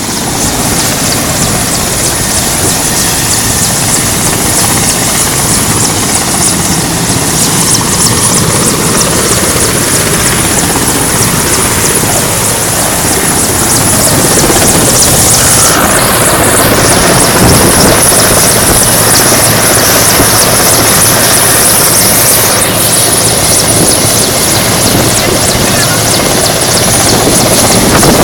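Helicopter taking off: its turbine and rotor running loud and steady, with a constant high whine, growing a little louder about halfway through.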